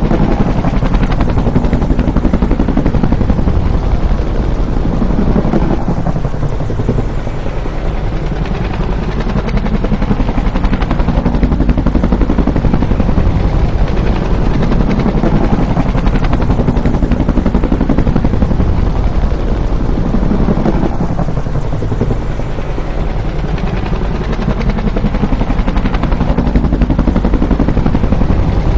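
Bell UH-1 Huey helicopter, its two-bladed main rotor chopping with a loud, steady drone. Its pitch dips and rises again twice, about fifteen seconds apart.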